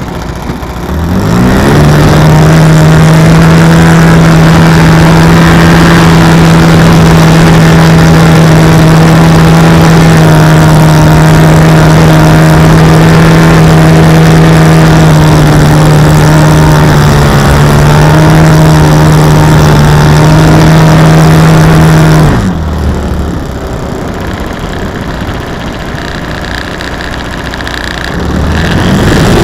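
RC model airplane's motor and propeller, very loud and close. It revs up about a second in and holds a steady high-throttle drone for about twenty seconds, is throttled back near 22 seconds, then revs up again near the end.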